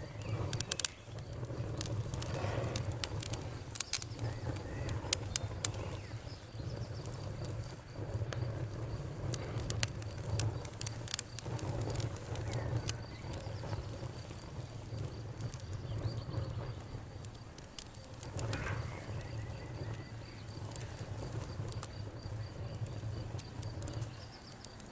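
Campfire crackling, with many sharp pops and snaps scattered over a steady low rumble.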